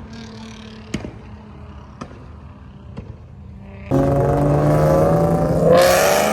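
A car engine idling low, with a few faint clicks, then about four seconds in the engine suddenly revs loud under hard acceleration, its pitch climbing. A rushing hiss joins it near the end.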